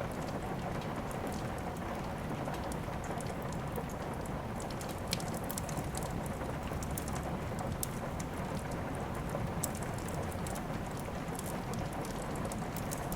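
Steady rain falling, with many small sharp crackles scattered through it from a wood fire burning in a fireplace.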